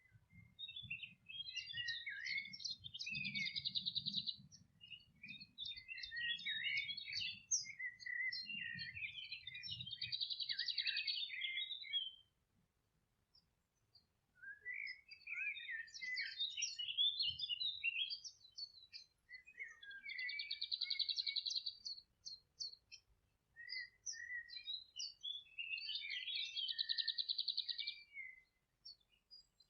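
Songbirds singing: bouts of varied high chirps and fast trills a few seconds long, broken by short pauses, one of about two seconds near the middle.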